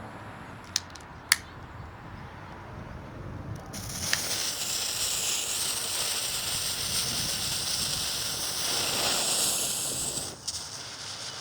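Two sharp clicks of a long-reach lighter, then about four seconds in a lit smoke ball starts hissing loudly and steadily as it pours out smoke, dying down shortly before the end. Wind rumbles on the microphone throughout.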